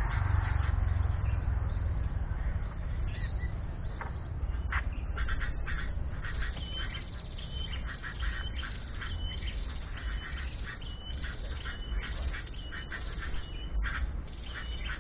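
Bird squawking in short calls repeated many times, coming thicker from about halfway through, over a steady low rumble.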